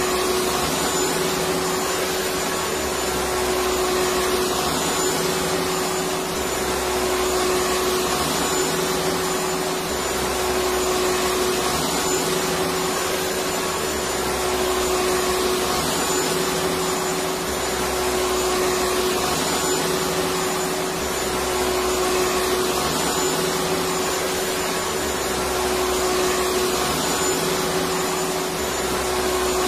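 Electric vacuum cleaner running steadily: a constant rushing motor noise with a steady whine, over a low hum that swells and fades every couple of seconds.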